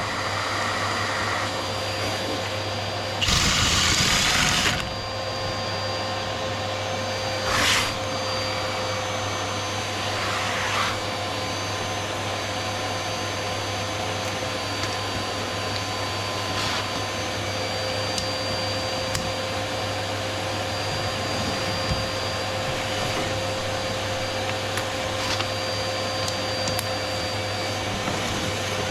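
Vacuum motor running steadily with a constant hum and a fixed mid-pitched tone, with a louder burst of noise about three seconds in lasting a second and a half and a brief one near eight seconds.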